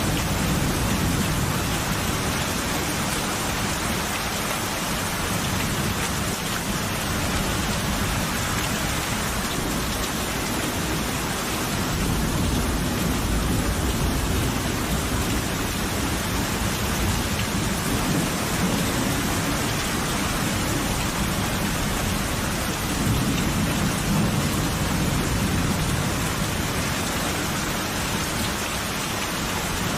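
Steady heavy rain with low rolling thunder that swells and fades several times.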